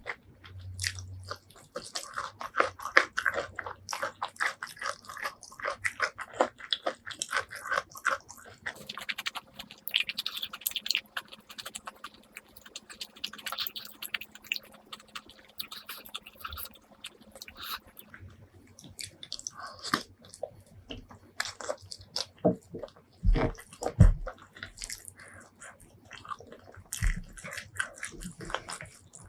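Close-miked eating: a person biting and chewing food, a dense run of quick, irregular mouth clicks and smacks, with a few louder bites about three quarters of the way through.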